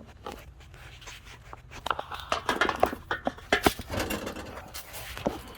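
Clicking, knocking and rattling of metal parts being handled as a snowblower's auger control cable hook is worked into place. It starts about two seconds in, with a quick run of sharp clicks and clunks that dies down near the end.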